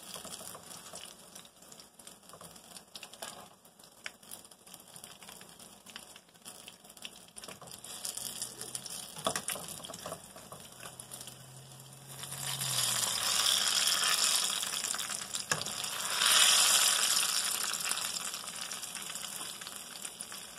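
Battered green chillies sizzling in hot oil in a frying pan, with a metal spatula clicking against the pan as pieces are lifted out. The sizzling swells louder twice, about twelve and sixteen seconds in.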